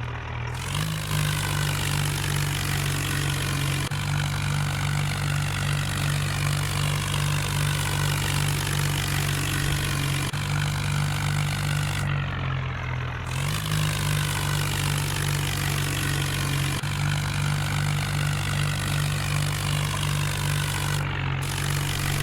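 Tractor engine running steadily, its speed picking up about a second in, easing off a little later, then picking up again about halfway through.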